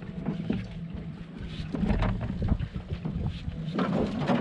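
A small boat's motor running steadily at low speed, with wind buffeting the microphone and scattered knocks, louder near the end.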